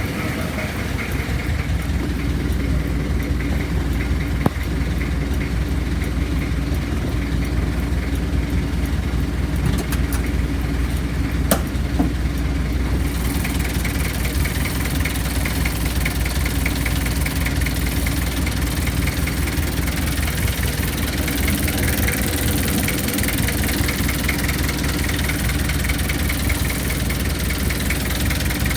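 A 1994 Kia Ceres pickup's 2.4 diesel engine idling steadily at an even speed, with a couple of faint clicks.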